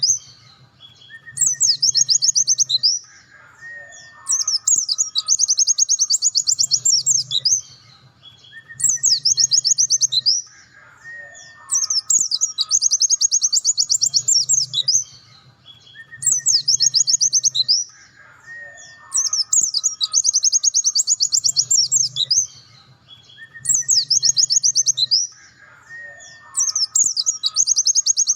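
Pleci dakun (white-eye) singing its rapid, high 'nembak' trilling song in phrases of one and a half to three seconds, repeating regularly about every four seconds. Fainter lower whistled notes with short pitch glides fill the gaps between phrases.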